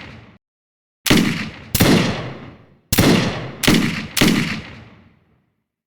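Five gunshots from a hunting firearm, each a sharp crack followed by an echoing fade: two about a second apart, then three in quicker succession.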